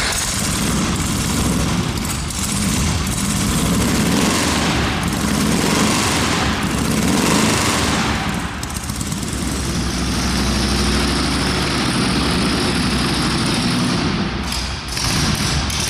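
Freshly rebuilt 1776cc air-cooled Volkswagen flat-four engine running with a rapid, rattling exhaust note, its speed rising and falling every couple of seconds.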